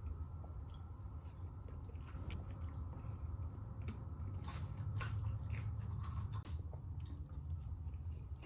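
Close-miked chewing and biting of crispy KFC fried chicken, with scattered crunches and mouth clicks over a steady low hum.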